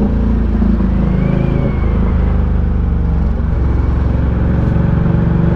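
Ducati Diavel 1260's V-twin engine running under throttle, with a brief dip in revs about three and a half seconds in before it picks up again.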